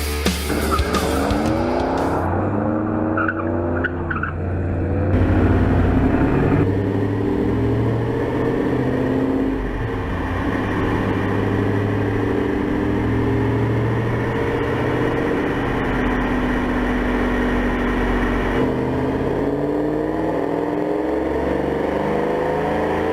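A 2001 Camaro Z28's LS1 V8 with SLP long-tube headers revving hard, its pitch climbing several times early on, holding, and rising again near the end. Rock music plays underneath.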